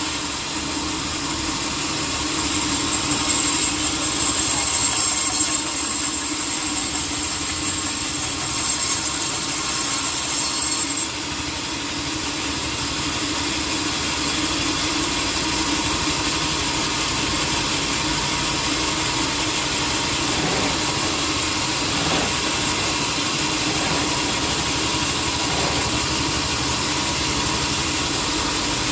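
Band sawmill running steadily with a constant machine hum. A high-pitched whine rides over it for the first eleven seconds or so and stops abruptly.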